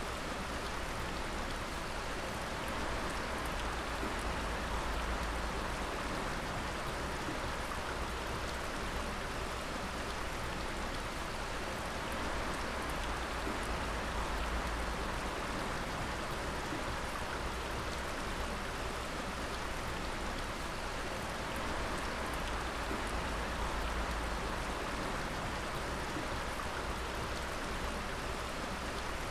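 Water dripping and pattering steadily onto rock and water, a dense, even patter like rain.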